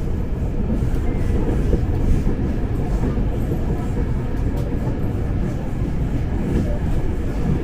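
Ex-Tokyo Metro 6000 series electric commuter train running, heard from inside the carriage: a steady low rumble of wheels and motors.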